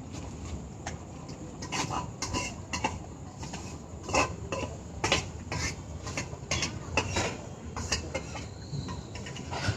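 Dishes and utensils clinking and clattering irregularly, a dozen or so sharp knocks over a low steady rumble.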